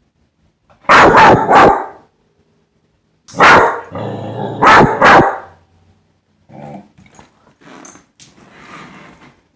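A pet dog barking in two loud bursts of about three barks each, with a low growl between the barks of the second burst, then quieter grumbling sounds near the end.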